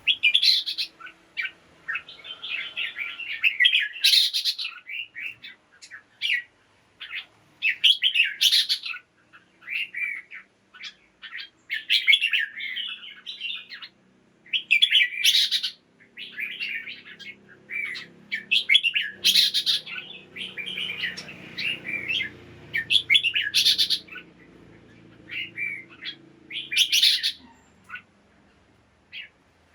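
Red-whiskered bulbul singing: runs of quick, bubbly chirps with a louder, sharp high note every three to four seconds.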